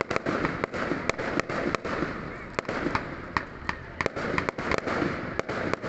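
Fireworks going off: many sharp bangs and cracks, several a second at irregular intervals, over a continuous din.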